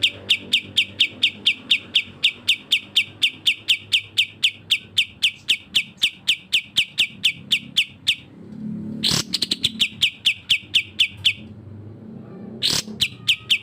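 Songbird chirping in a fast, even series of identical short high notes, about five a second. The series breaks off a little past halfway, and then two sharp rising whistles come, each followed by a brief run of the same chirps. The recording pairs a grey-cheeked bulbul (cucak jenggot) with a kapas tembak bulbul.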